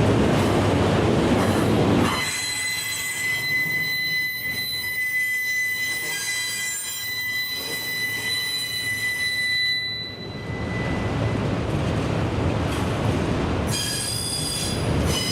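Wheels of CSX railroad cars squealing against the rails as the train rolls past, a steady high-pitched squeal over the rumble of the cars. The squeal sets in about two seconds in, fades out after about ten seconds, and comes back briefly near the end.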